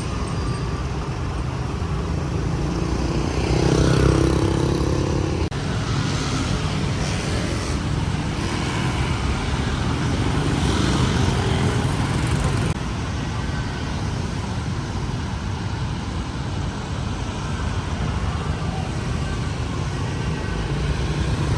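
City street traffic: a steady rumble of passing cars and motorbikes, swelling louder about four seconds in as a vehicle goes by, with the ambience jumping abruptly twice.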